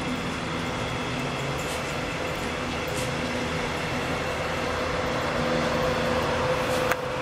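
Electric regional train of double-deck coaches rolling past on the track, a steady rumble of wheels on rails with a steady hum that grows a little louder toward the end. A single sharp click shortly before the end.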